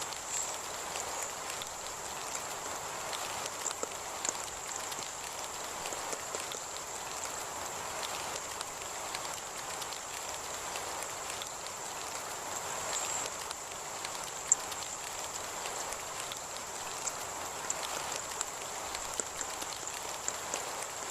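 Heavy rain falling steadily, with many small sharp drop hits and one louder hit about two thirds of the way through. A steady high thin tone sounds alongside.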